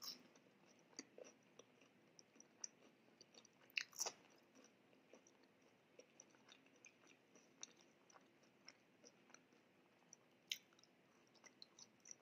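Faint close-miked chewing: soft, wet mouth clicks scattered throughout, with a couple of louder smacks about four seconds in and again about ten seconds in.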